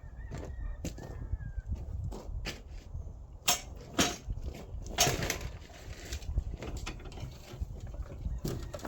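Scattered knocks and clunks over a low rumble, the loudest three coming a little before and after the middle, as the Deutz air-cooled diesel engine is worked through the welder's frame.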